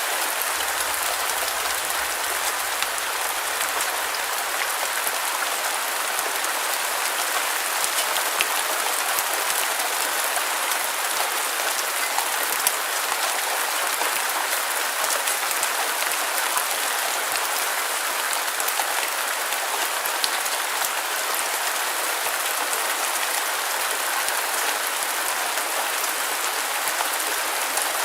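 Steady rain falling on a surface, an even hiss with many fine patters of individual drops.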